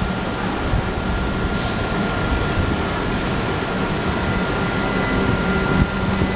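Class 377 Electrostar electric train moving slowly: a steady rumble with a thin, constant whine above it.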